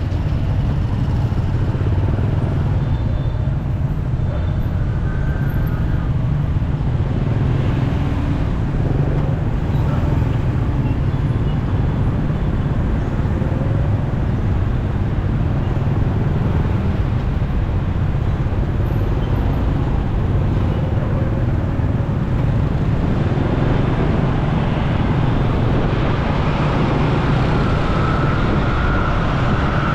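Motorcycle ride through city traffic: steady engine and road noise heavy in the low end, with other vehicles around. Near the end a high, wavering siren begins to come in.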